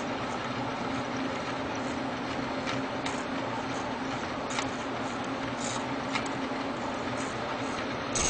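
3D printer running: a steady mechanical hum with a constant low tone, broken by a few short clicks.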